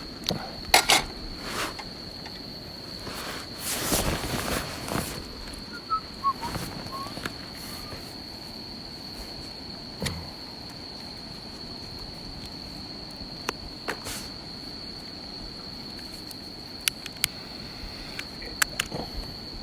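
A steady high-pitched insect trill, with scattered sharp crackles and clicks from a campfire and a stretch of rustling and knocking about three to five seconds in.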